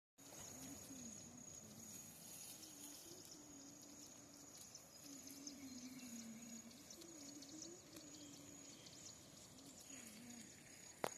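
Faint rural outdoor ambience: a steady high-pitched insect drone over a soft hiss, with a faint, slowly wavering low tone coming and going, and a sharp click near the end.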